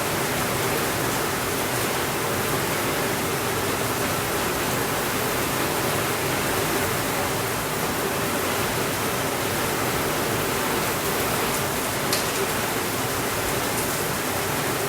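Heavy rain falling steadily on a window, a constant even hiss, with a few faint crackles from a fireplace near the end.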